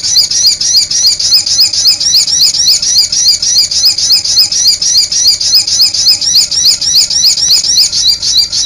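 A small songbird singing a fast, unbroken run of short high sweeping notes, about five a second, that cuts off suddenly at the end.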